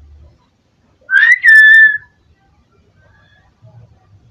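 Pet myna bird giving one loud whistled call about a second in: a quick rising start, then a steady held note lasting about a second.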